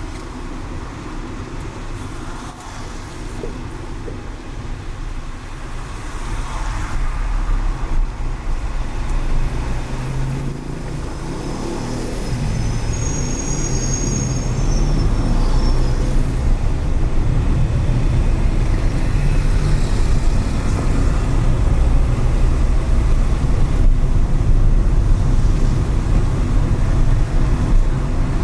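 Car driving on city streets after rain: a steady low rumble of engine and tyres on the road. It grows louder about a quarter of the way in as the car picks up speed.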